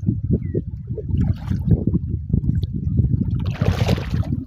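Water sloshing and splashing, with a louder, hissing splash about three and a half seconds in.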